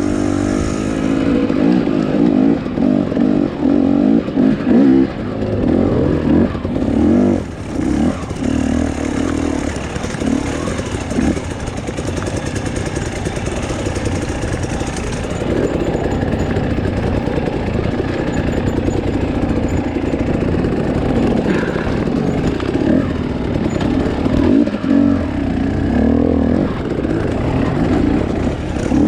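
Husqvarna TE250i two-stroke dirt bike engine being ridden, its revs rising and falling as the throttle opens and closes, with a few short drops in engine sound about six to eight seconds in.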